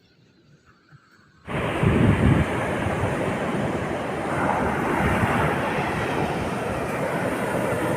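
Heavy rain pouring down: a dense, steady hiss that cuts in suddenly about a second and a half in after near silence, with a low rumble strongest just after it starts.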